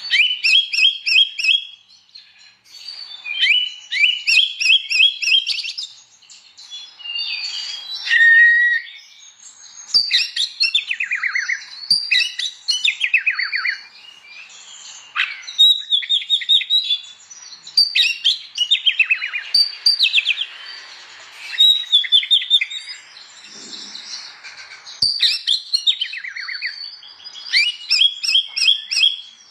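Oriental magpie-robin (kacer) singing in full song: a continuous run of varied phrases made of rapid repeated notes, quick falling trills and whistles, with short pauses between phrases.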